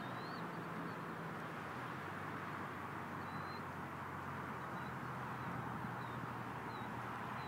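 Several short, high bird chirps scattered over a steady background hiss and low hum.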